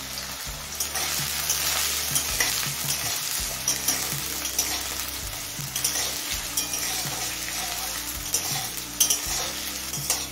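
Diced potato frying in smoking-hot mustard oil in an aluminium kadai: a steady sizzle, with a metal spatula scraping and clicking against the pan as the potatoes are stirred.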